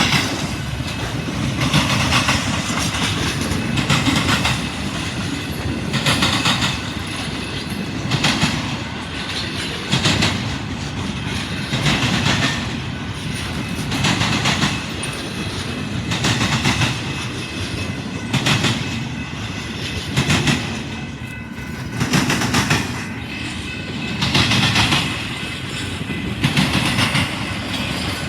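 Train rolling past, its wheels clattering over the rail joints in a regular beat, one loud surge about every two seconds, over a steady rumble.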